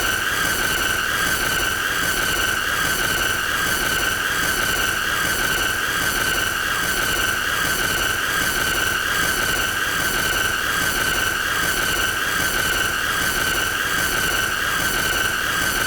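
A continuous high-pitched squealing tone, held steady at one pitch with a slight waver, meant as an annoying sound.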